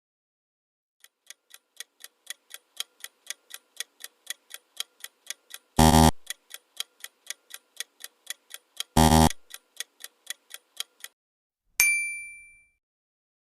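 Quiz countdown timer sound effect: clock ticking about four times a second for about ten seconds, twice broken by a short loud buzzy hit, and ending with a single bright ding.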